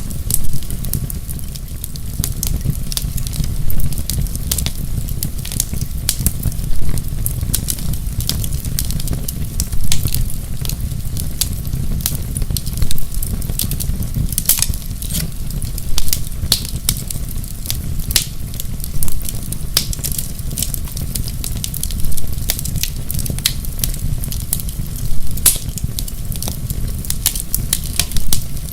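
Wood fire in a fireplace crackling: a steady low rumble under constant small pops, with a louder snap about every three seconds.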